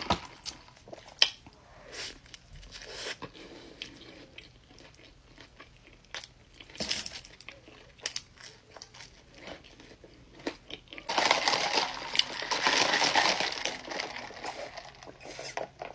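Close-miked eating: a paper burger wrapper crinkling and a person chewing and biting. About eleven seconds in comes a louder, denser stretch of rustling that lasts a few seconds.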